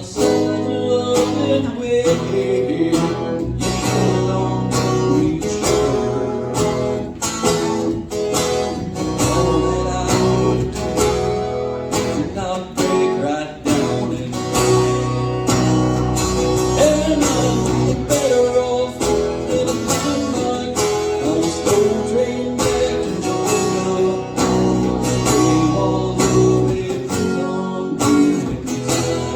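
Country song played live, with acoustic guitar strummed in a steady rhythm.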